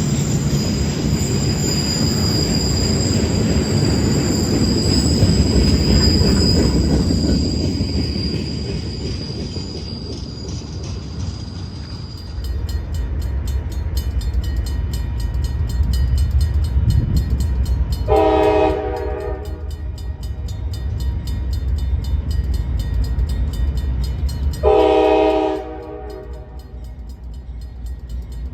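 Train rolling by with a rumble and a thin high wheel squeal that fades out over the first dozen seconds. A locomotive's rumble then builds as its multi-chime air horn sounds twice, each blast about a second long, some seven seconds apart.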